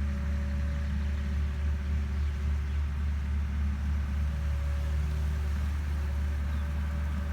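Agricultural machine's engine running with a steady low drone.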